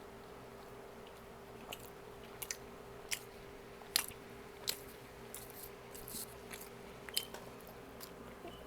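Close-miked chewing and eating: scattered wet mouth clicks and smacks, sometimes several close together, with no talking.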